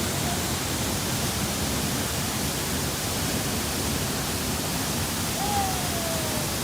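Waterfall, a steady rushing roar of falling water. About five and a half seconds in, a faint, thin tone slides downward for about a second.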